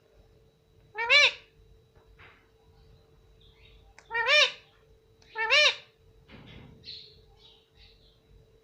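Pet talking parrot giving three short calls, each rising and falling in pitch, the middle and last close together, followed by a few soft chattering sounds near the end.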